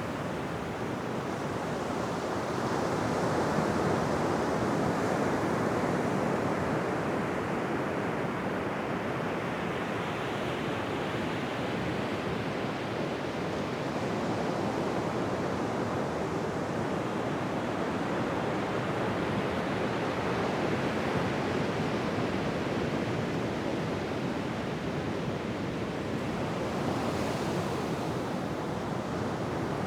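Ocean surf washing onto a beach: a steady rush of waves that swells and eases slowly, loudest a few seconds in.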